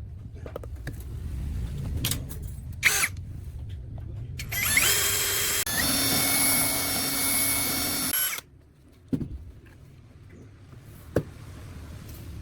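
A small electric power tool spins up quickly to a high whine, runs at speed for about four seconds and cuts off suddenly. A few knocks come before and after it.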